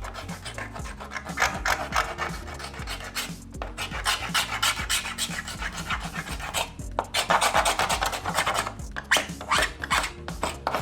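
Hand scuffing of the smooth back of a plastic motorcycle fairing panel: repeated rasping strokes with two short pauses, roughening the surface so a fibreglass repair will adhere.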